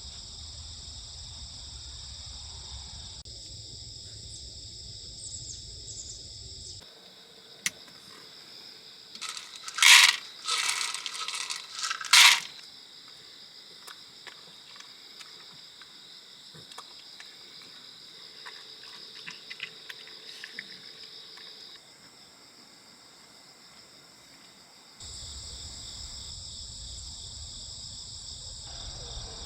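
Steady high chirring of crickets and other insects, with a short run of loud sharp clicks and clatter about a third of the way in.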